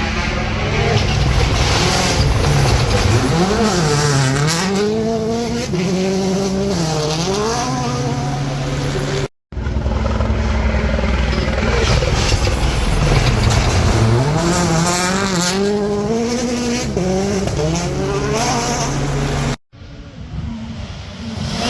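Rally car engine at full revs, its pitch climbing and dropping again and again as the driver works through the gears. The sound cuts out abruptly twice, about nine and twenty seconds in, and restarts each time.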